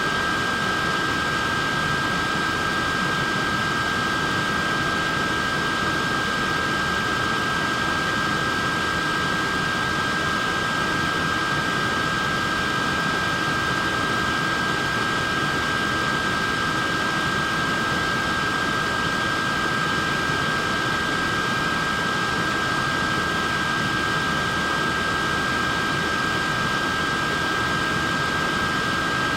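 Neck fan running steadily: an even whoosh of air with a constant high motor whine.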